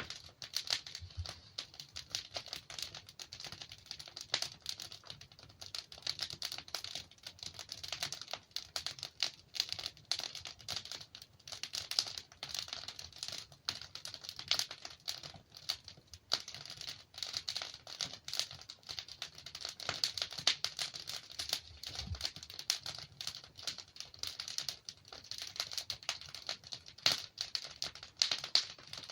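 Wood fire burning in a fireplace: a steady, dense stream of small crackles and snaps from the burning logs, with a soft low rumble of the flames underneath.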